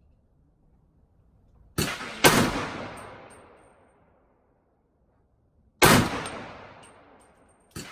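Rifle shots from a .300 Blackout AR-15 being sighted in. A shot about two seconds in is followed half a second later by a louder one, another comes about six seconds in, and a fainter report sounds near the end. Each has a long echoing tail.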